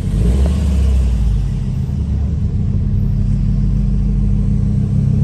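Car engine running with a deep, steady rumble that picks up sharply at the start and then holds.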